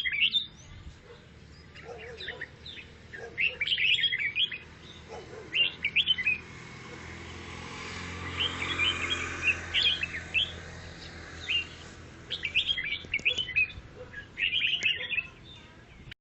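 Grey-cheeked bulbul (cucak jenggot) singing in repeated bursts of quick, chattering chirps, with short pauses between phrases. A soft hiss with a low hum swells and fades in the middle.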